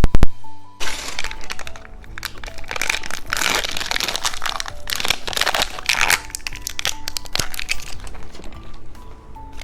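Hard candy being bitten and crunched close to the microphone. A few sharp cracks come right at the start, then a dense run of crunching fades out near the end, over soft background music.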